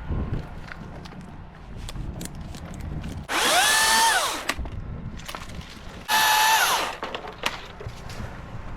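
Battery-powered chainsaw run in two short bursts, the second shorter. Each time the motor's whine rises quickly, holds steady and winds down.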